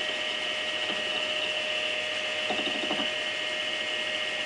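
Lathe running with a milling cut in metal on a lathe milling attachment: a steady whine with a high ringing band. A brief rattle comes about two and a half seconds in.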